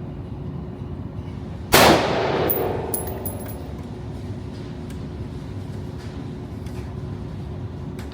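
A single gunshot about two seconds in, followed by about a second of ringing echo that dies away, over a steady background hum.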